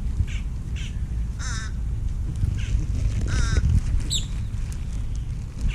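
Birds calling: a run of short harsh calls repeated every half second to a second, with a single high rising whistle about four seconds in, over a steady low rumble.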